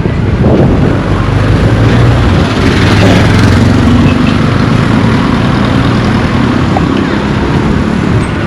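Motor vehicle driving past on the road, its engine hum rising and easing over a steady noisy rumble.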